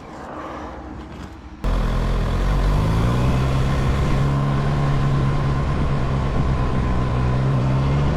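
About a second and a half in, the sound cuts abruptly to a loud, steady vehicle engine at constant speed, mixed with road and wind noise, as on a vehicle cruising along a road.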